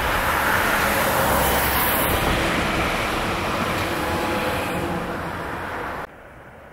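A DB Talent 2 (class 442) electric multiple unit running past below, a steady rushing rumble of wheels on rail that slowly fades as it goes by. The sound cuts off abruptly near the end.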